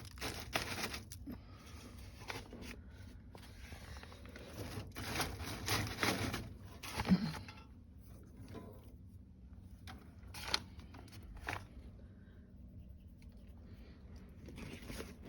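Handling of dry kindling on crumpled newspaper in a fireplace grate: irregular rustling of paper and light knocks and clicks of small wood sticks being laid, with a louder knock about seven seconds in.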